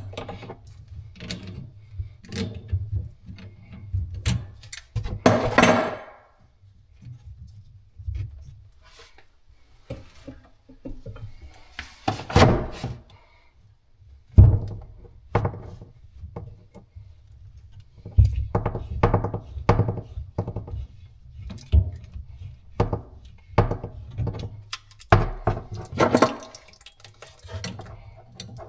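Irregular knocks and clunks of plumbing tools and fittings being handled during pipe work, with two longer scraping noises about five and twelve seconds in.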